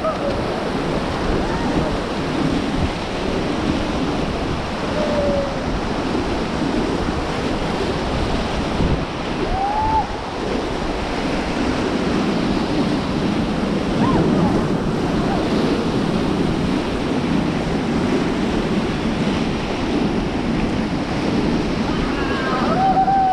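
River water rushing steadily, with wind on the microphone and brief faint voices now and then.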